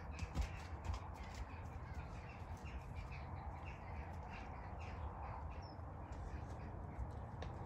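Birds calling, many short calls in quick succession, over a steady low rumble.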